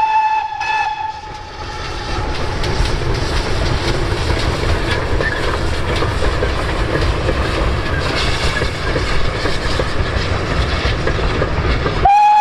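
Steam train with two GWR pannier tank locomotives: a steam whistle blowing one steady note stops about a second in, followed by the train running with a low rumble and clicking of wheels over rail joints. Near the end the whistle starts again suddenly and loudly.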